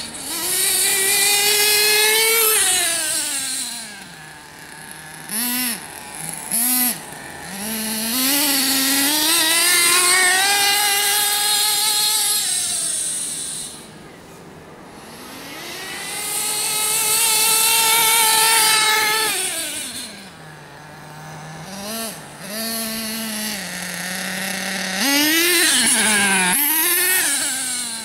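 Radio-controlled car motor revving: several long runs where the pitch climbs and falls away, with short throttle blips in between.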